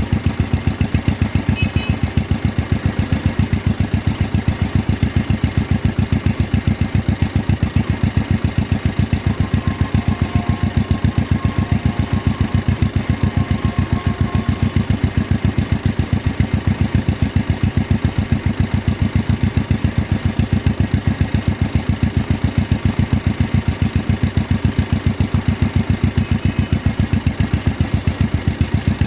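1953 John Deere 40's two-cylinder engine running steadily at low speed, with an even beat of about four to five pulses a second.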